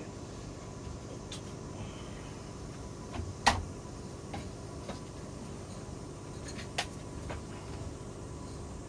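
Steady machine hum with several sharp clicks or knocks, the loudest about three and a half seconds in and another near seven seconds.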